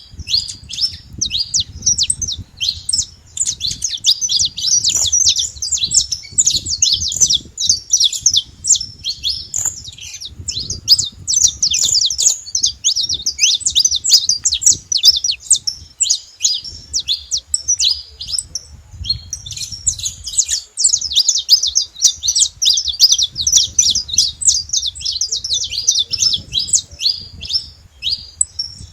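Saffron finch singing: fast, dense runs of high chirps that thin out briefly a little past halfway, then pick up again. A low rumble runs underneath.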